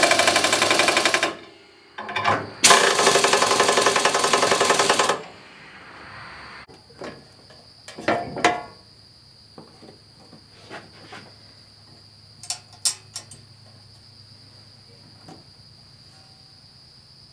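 Impact wrench hammering in two bursts, about two and two and a half seconds long, running nuts down on the bolts of a disc harrow. Afterwards, scattered light metallic clicks and knocks of parts and tools being handled.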